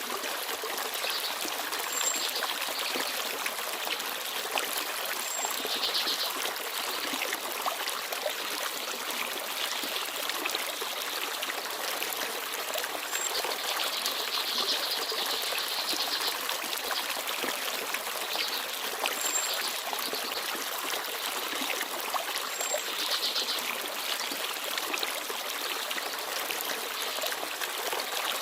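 Small forest stream babbling and trickling steadily over stones, with a few brief, very high chirps from small birds now and then.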